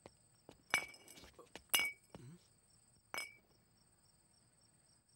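Crickets chirping in a steady, evenly pulsed night ambience, broken by three sharp clicks with a short ring, the loudest about two seconds in.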